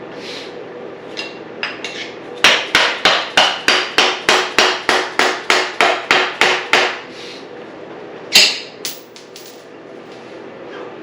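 Hammer blows driving the swingarm pivot bolt out of a Honda CRF450R dirt bike frame: a steady run of about fourteen strikes, about three a second, then one more loud knock a second or so later.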